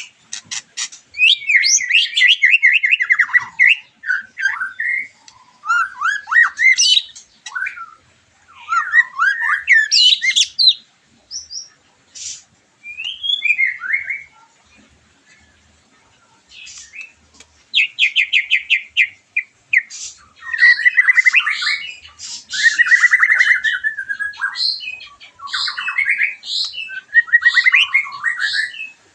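White-rumped shama (murai batu) singing: a varied run of whistled phrases, harsh notes and rapid trills, with a quieter stretch in the middle.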